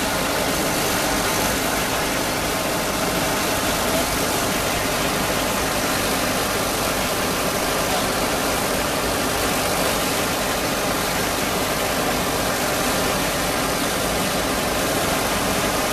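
Dongfeng dust-suppression truck running steadily: a diesel engine hum under an even, loud rushing noise that does not change.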